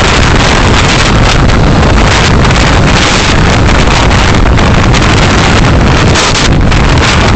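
Loud, steady wind and road rumble on a moving vehicle's dashcam microphone, with no let-up.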